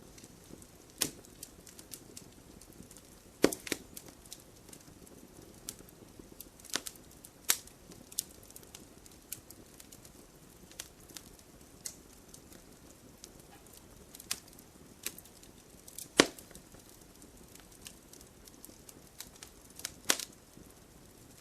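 Burning firewood crackling: irregular sharp pops and snaps over a low, soft hiss, with two louder snaps about three and a half seconds and sixteen seconds in.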